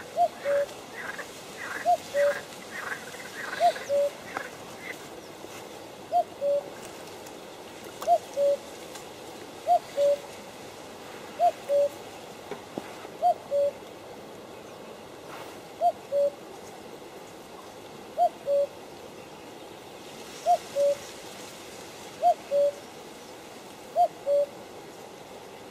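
A bird repeating a two-note hooting call, the first note higher than the second, about every two seconds. A quicker run of short, higher chirps overlaps it for the first few seconds.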